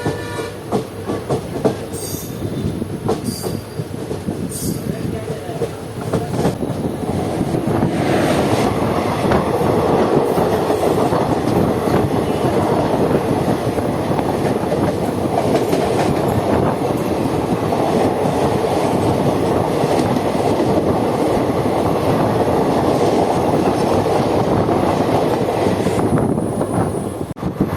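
Train running on the rails, the wheels clattering and rumbling. It grows louder and steadier about eight seconds in.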